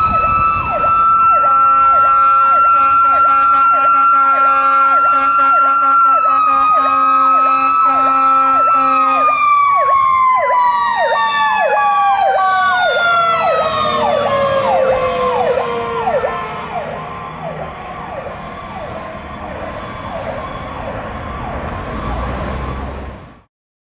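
Fire truck sirens responding. One siren holds a high, steady wail, then winds slowly down in pitch. Over it another siren yelps in fast sweeps, two or three a second. The sirens fade after about sixteen seconds and cut off suddenly just before the end.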